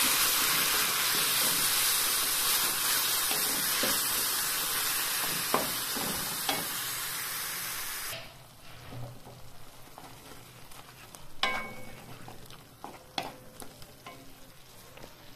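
Tomato paste and capsicum frying in hot oil, sizzling steadily while being stirred with a spatula. About eight seconds in, the sizzle drops off abruptly, leaving a much quieter pan with scattered scrapes and taps of the spatula against it.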